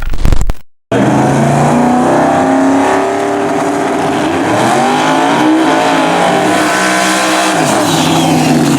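No-prep drag race car engines running hard at full throttle, starting abruptly about a second in, with the pitch climbing through the middle and dropping near the end.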